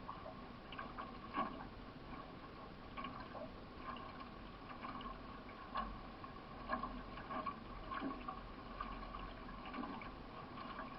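Water gurgling along the hull of a solo racing canoe, with paddle strokes splashing in the water about once a second.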